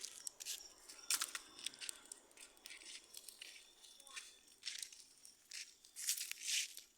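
Dry leaves and twigs rustling and crunching in irregular bursts, with a few sharp crackles, loudest near the end.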